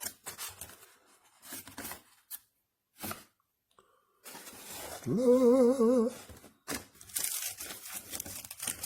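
Rustling and tearing handling noises, with a short hummed tone whose pitch rises and then wobbles, about five seconds in.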